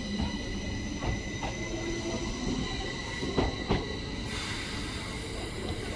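Northern Class 333 electric multiple unit pulling away from the platform: a steady low rumble under a steady high whine, with a few sharp clacks from the wheels, the loudest two about three and a half seconds in.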